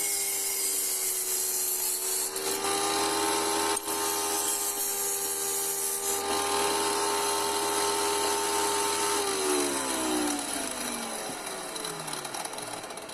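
Wet saw with a diamond blade running, grinding through a glass bottle with a steady motor whine and gritty hiss. About nine seconds in it is switched off, and the whine falls in pitch as the blade spins down.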